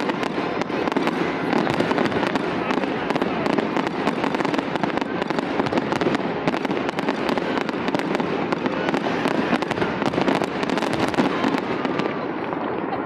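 Fireworks display going off without pause: a dense, rapid stream of crackles and bangs.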